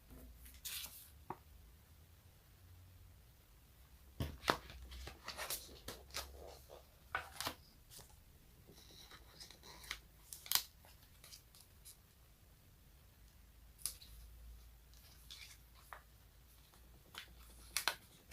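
Sticky surfaces being peeled apart in short, sharp crackly pulls, coming at irregular intervals throughout.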